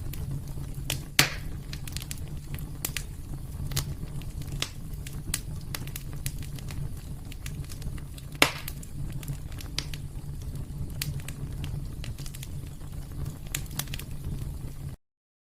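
Wood fire burning in a fireplace: a steady low rumble with frequent small crackles and two louder pops, one about a second in and one past the middle. The sound cuts off suddenly near the end.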